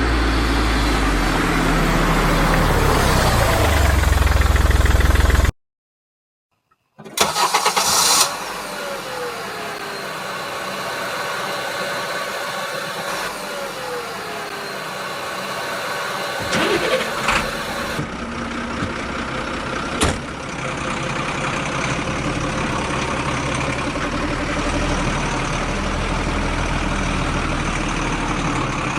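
A vehicle engine running steadily, cut by an abrupt total drop-out of about a second and a half some five seconds in. A short loud burst follows, then a few slow rising and falling tones and a single sharp click.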